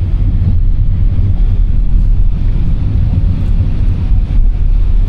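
Steady low road-and-engine rumble of a car heard from inside the cabin while driving.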